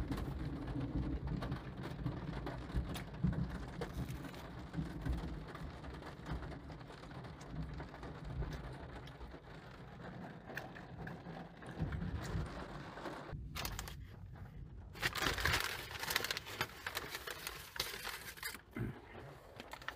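Rain falling on a car's roof and windshield, heard from inside the car, with the low rumble of thunder rolling on and fading over the first several seconds. Near the end a louder rush of noise lasts about three seconds.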